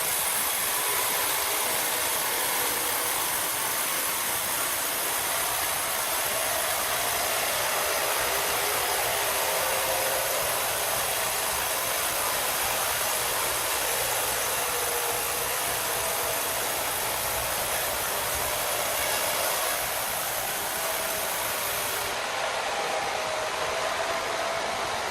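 A machine running steadily: an even hissing noise with a faint wavering whine beneath it.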